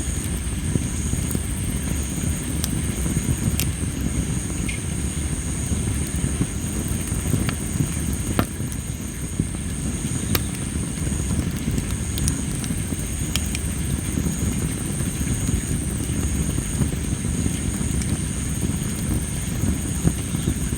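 Tree-of-heaven (Ailanthus) wood burning in a campfire, with sharp crackling pops every second or two over a steady low rumble; the loud pops are the kind the uploader puts down to the wood's high moisture. Insects sing steadily in the background as a continuous high-pitched trill.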